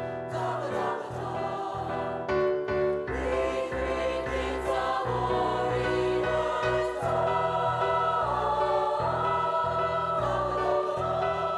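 A children's school choir singing a Christmas song with musical accompaniment, several voices holding sustained notes over a steady low bass line.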